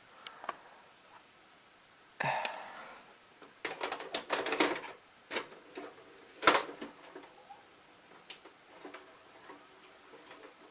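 A VCR's tape mechanism clicking and clunking in a series of sharp mechanical knocks, the loudest about six and a half seconds in. The VHS tape is being fast-forwarded to its very end, where it snaps.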